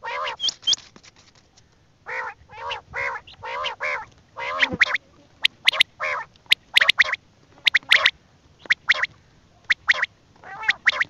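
Birds calling: a run of short, harsh calls, each under half a second, interleaved with sharp high chirps. There is a brief pause about a second in.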